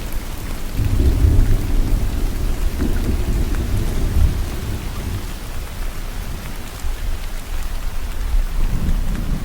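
Steady rainfall with a low rumble of thunder that swells about a second in, fades over the next several seconds, and builds again near the end.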